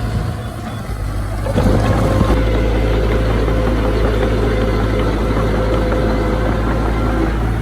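Diesel engine of heavy earthmoving machinery running steadily. It dips slightly in the first second and picks up again about a second and a half in.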